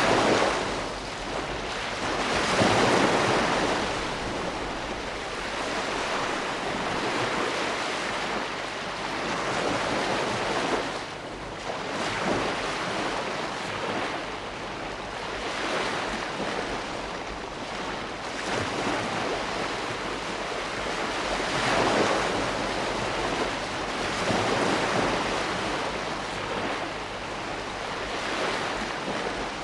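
Ocean waves breaking and washing in on the shore, a continuous rushing surf that swells with each wave every few seconds.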